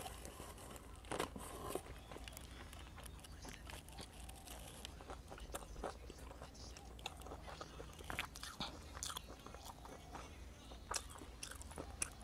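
Quiet close-up eating sounds: a person biting into and chewing a rice-paper summer roll, with scattered soft clicks of the mouth.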